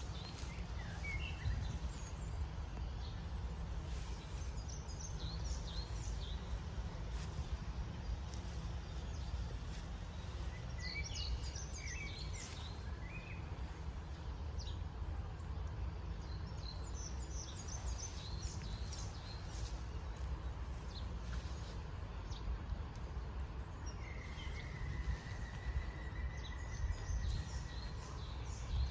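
Outdoor ambience: small birds chirp here and there over a steady low rumble. Near the end comes one long, even, slightly falling whistle lasting a few seconds.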